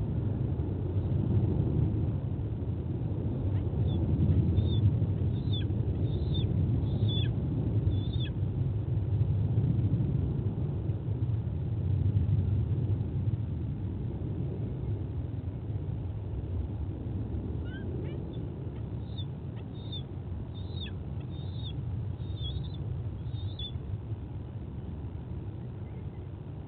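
Steady low rumbling noise, like wind buffeting an outdoor microphone, easing off in the second half. Over it, a bird gives two runs of short high chirps, about half a dozen each, near the start and again past the middle.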